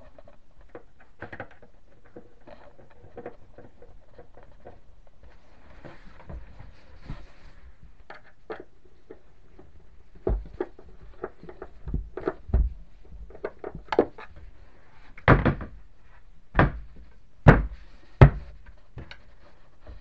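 Scattered knocks, clicks and clunks of hands and tools working on kitchen cabinet hardware, with four loud sharp knocks in the second half.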